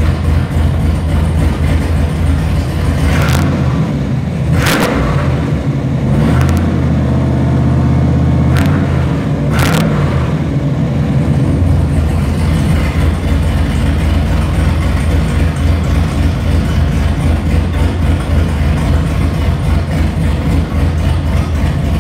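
Freshly built, cammed 416 cubic-inch forged stroker LS3-based V8 running on its first start-up day with no exhaust fitted, dumping straight out of a 3-inch downpipe under the car. From about four seconds in its speed rises for several seconds, with a few sharp pops, then it settles back to a steady idle.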